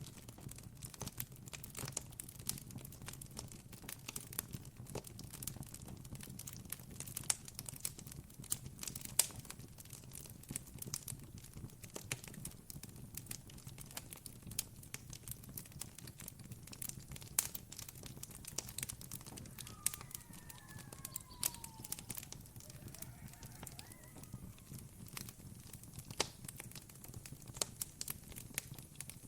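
Wood campfire crackling, with irregular sharp pops and snaps over a steady low rumble. About twenty seconds in, a faint animal call with sliding notes joins in for a few seconds.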